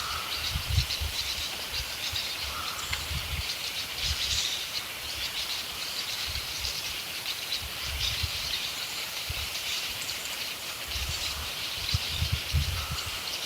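Rainforest ambience: many small high-pitched bird chirps and calls running together, with occasional faint low rumbles.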